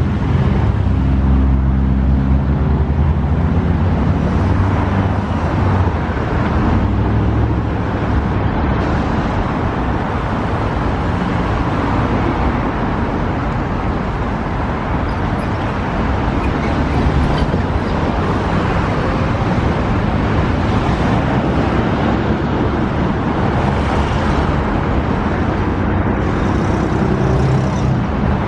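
Loud, steady vehicle noise: a continuous rushing rumble with a low engine hum, strongest in the first few seconds and again near the end.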